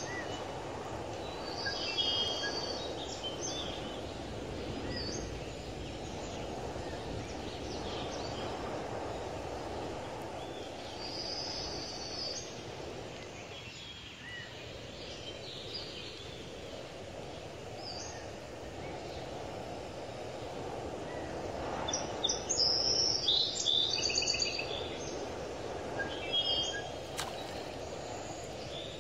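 Birds chirping now and then over a steady low background noise, with a flurry of quick calls about three-quarters of the way through.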